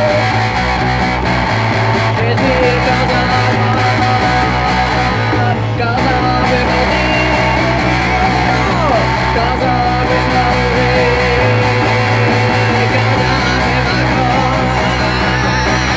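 Rock band playing an instrumental passage: guitar lines over a bass line that changes note every second or two.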